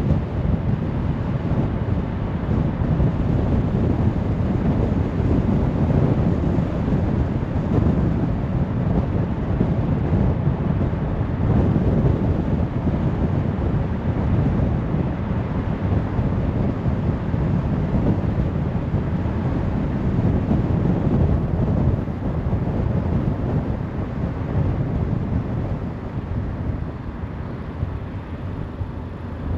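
Steady road noise of a car driving: a low rumble of tyres and wind with no distinct events, easing slightly in the last few seconds.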